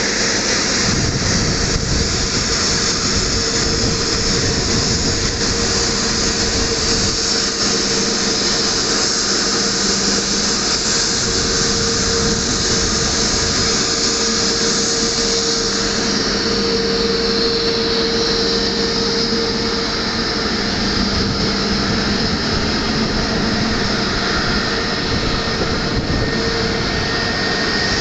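Airliner jet engines running steadily as the aircraft taxis, a loud even hiss and whine with a low steady hum under it.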